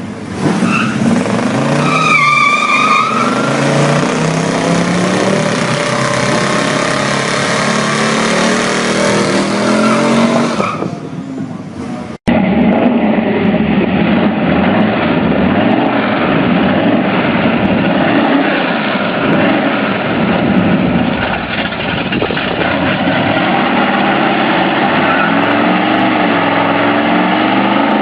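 Muscle car engine revving hard through a burnout, with tyres spinning and squealing against the pavement. The sound cuts off abruptly about twelve seconds in and resumes at once with another stretch of high-revving engine and tyre noise.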